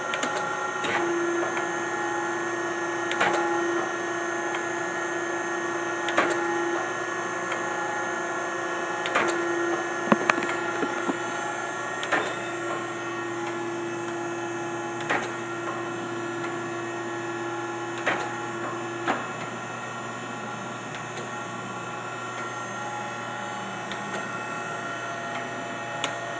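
Kent SGS-1020AHD surface grinder running with its spindle on and the automatic incremental down feed engaged: a steady machine hum and whine, with a sharp click about every three seconds. One of the tones stops about two-thirds of the way through and the sound drops a little.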